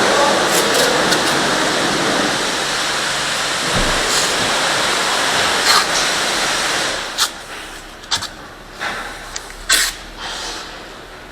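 Steady, loud rushing noise that drops away about seven seconds in, followed by a few sharp clicks and knocks.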